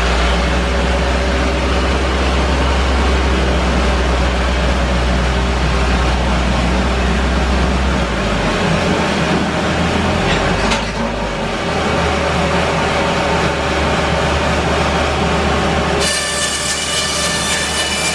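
Bandsaw mill running, milling English larch: a loud, steady mechanical noise over a low engine drone that drops in pitch about halfway through. Near the end a layer of steady high tones joins in.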